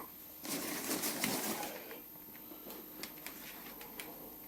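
Handling noise from a part being picked up and shown: a soft rustle for about a second and a half, then a few faint scattered clicks.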